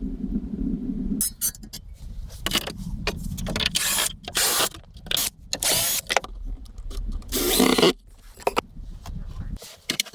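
Irregular scraping, rubbing and knocking of objects being handled, in uneven bursts, after a low steady hum that stops about a second in.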